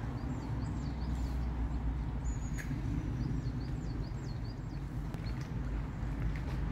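A small songbird gives two quick runs of high, short chirps over a steady low rumble, with a single sharp click about two and a half seconds in.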